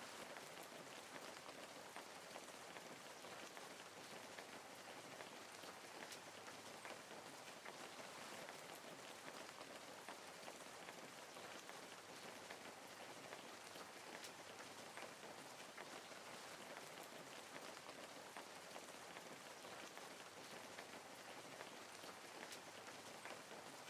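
Soft, steady rain falling, with fine scattered drop ticks in an even hiss that doesn't change.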